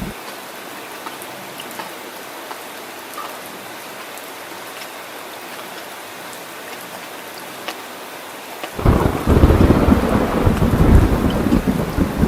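Steady rain pattering down in a thunderstorm. A low rumble stops abruptly right at the start, and about three quarters of the way through, a loud roll of thunder breaks in and keeps rumbling.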